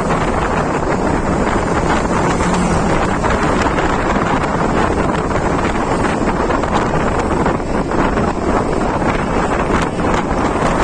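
Heavy wind noise buffeting the microphone while travelling along a road: a loud, steady rush that never lets up.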